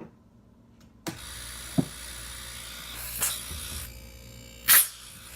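A brand-new Embraco NE2134GK refrigeration compressor starts about a second in and runs with a steady hum and hiss as its discharge line pushes pressure against a finger held over it, a sign of a healthy compressor. A short loud burst of hiss comes near the end.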